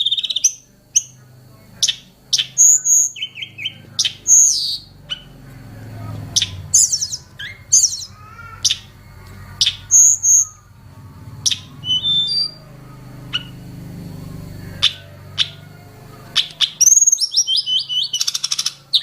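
A tledekan gunung singing a varied string of sharp chirps, whistles and short warbled phrases, ending in a rapid trill. A faint steady high tone runs beneath.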